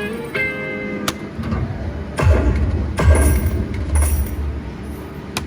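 Railroad Riches video slot machine sounds: a short jingle of notes, then a click and three low thuds about a second apart as the reels land.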